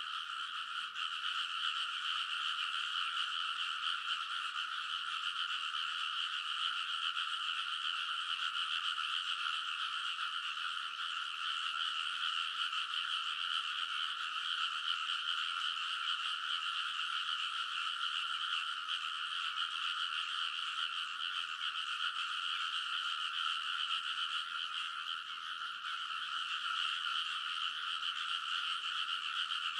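A dense chorus of many frogs calling at once, forming a steady, unbroken din in which no single call stands out.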